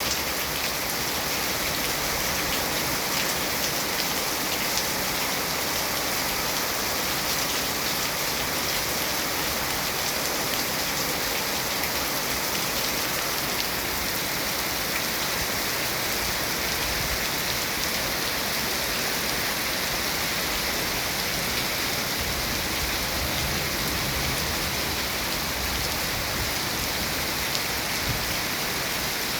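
Heavy rain falling steadily, an even rushing hiss of drops striking surfaces.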